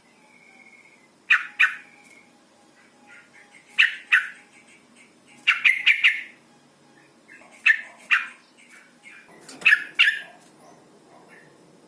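Sooty-headed bulbul (trucukan) female giving short, sharp "cuk-cuk" call notes, mostly in pairs, repeated every second or two, with a brief whistled note at the start.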